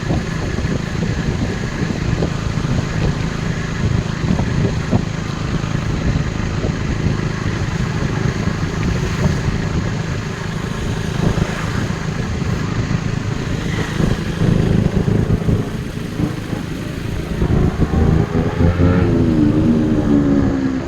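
KTM RC 390's single-cylinder engine running on the move, under heavy wind buffeting on the microphone. Near the end the engine note comes through clearly and climbs in pitch as the bike accelerates.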